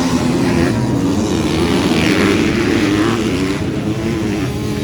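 Several motocross bikes' engines running and revving together, their pitch wavering up and down.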